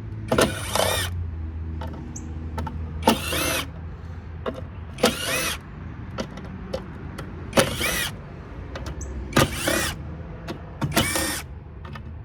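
Power drill backing screws out of a metal power-supply case: six short bursts of motor whine, each rising and falling in pitch, about every two seconds.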